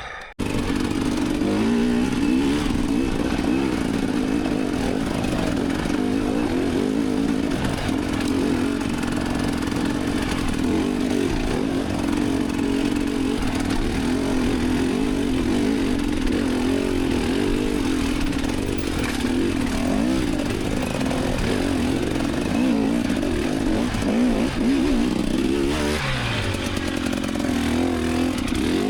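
Off-road dirt bike engine revving up and down continuously, its pitch rising and falling as the throttle is worked under load.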